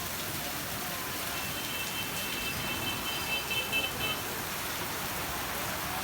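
Heavy rain falling steadily, an even hiss of drops on surfaces. From about a second and a half in, a high, thin tone of unclear source sounds for nearly three seconds over the rain.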